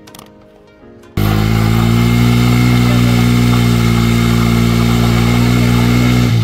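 About a second in, a Bajaj Pulsar NS200's single-cylinder engine cuts in loud, held at steady high revs as the rear tyre spins in place for a burnout.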